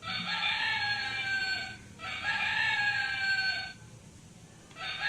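Rooster crowing: two long crows, each with a slightly falling tone, and a third starting near the end.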